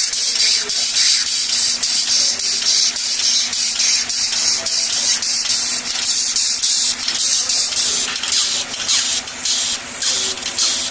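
Compressed air hissing in rapid pulses from a small dual-mode engine running on its compressed-air supply, over a steady low hum.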